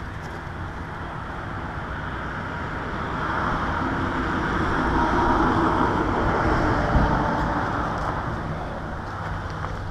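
A vehicle driving past: its tyre and engine noise swells to a peak about five to seven seconds in, then fades away. A single sharp click sounds near the loudest point.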